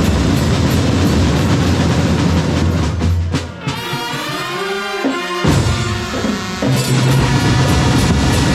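Drum and brass corps playing: heavy drumming under brass. About three seconds in, the drums drop out for a couple of seconds, leaving held and sliding brass notes, then the full band comes back in.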